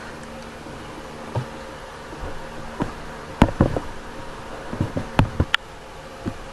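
Steady electrical buzzing hum, with a run of small sharp clicks and taps from about halfway through as tiny model parts are handled on the workbench.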